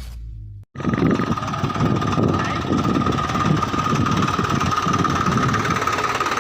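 Swaraj tractor diesel engines running steadily, a rough low chugging with a constant high whine over it, starting under a second in after the intro sound cuts off.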